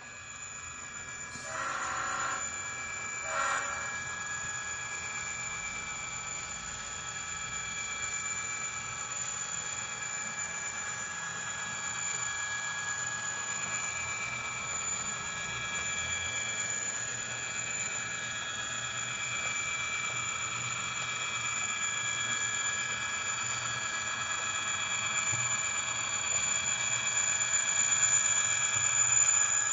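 DCC sound decoder in an HO scale Auscision V/Line A class diesel locomotive model playing diesel engine sound through its small speaker, with a steady high whine over it. Two short horn blasts come about two and three and a half seconds in, and the engine sound grows gradually louder toward the end.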